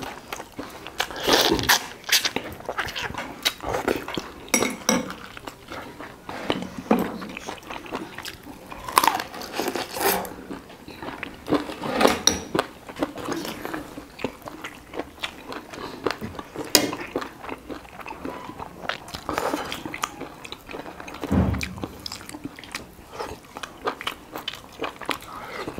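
Close-miked chewing and biting on roast duck meat and hard bone, in irregular crunches and mouth clicks, with occasional clinks of utensils against a bowl.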